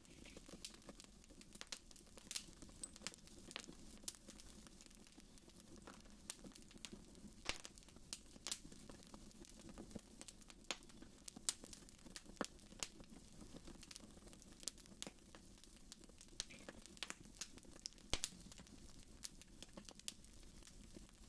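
Fireplace fire crackling faintly: irregular sharp snaps and pops over a low, steady rumble.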